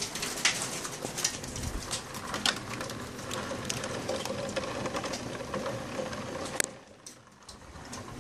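Hailstones falling and striking hard surfaces: a dense, irregular patter of clicks and knocks over a hissing wash, which drops away sharply near the end.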